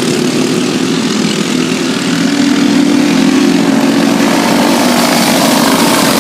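Several stock cars' engines running at race speed around the oval track, a continuous drone that swells louder about two seconds in as the cars pass closer.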